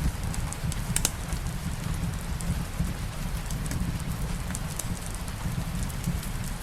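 Steady rain ambience with a low rumble underneath and scattered sharp crackles from a wood fire, a few louder pops about a second in.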